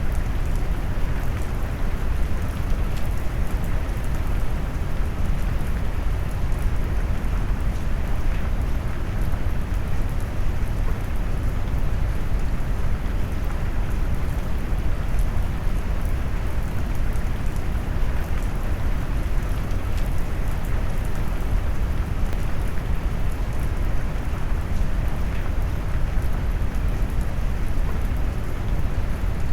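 Steady rain noise mixed with brown noise: a dense, even hiss of rainfall with deep, heavy low tones and little high treble, unchanging throughout.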